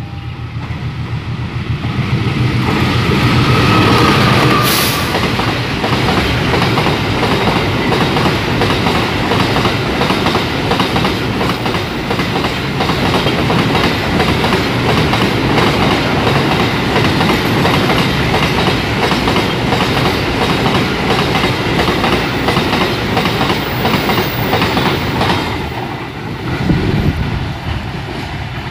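Freight train passing close by, its wagon wheels clattering over the rail joints in a steady clickety-clack. The sound builds over the first few seconds, runs on evenly for about twenty seconds, and fades near the end.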